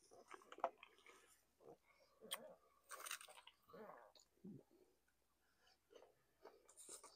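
Quiet chewing and crunching of fried chicken and pizza, with irregular wet mouth clicks and small crunches.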